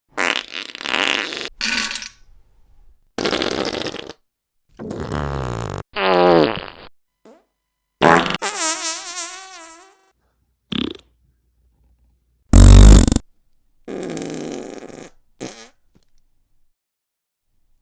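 A string of about a dozen separate fart sound effects, short and long, with gaps between them; some are a flat rasp, others have a pitched tone that wobbles up and down, the longest lasting about two seconds. The loudest is a short one a little past two-thirds of the way through.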